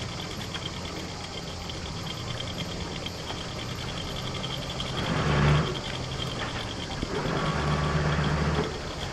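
A sailboat's diesel engine idling steadily, with two short throttle bursts about five seconds in and again near the end, as the boat is manoeuvred at slow speed.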